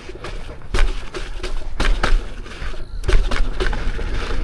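Lynx electric unicycle being ridden over a rough dirt trail: irregular sharp knocks and clunks from the tyre and suspension hitting bumps, over a constant low rumble.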